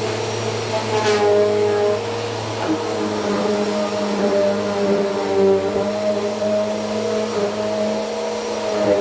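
Vacuum cleaner running loudly and steadily, a motor hum with a higher whine whose pitch wavers slightly now and then.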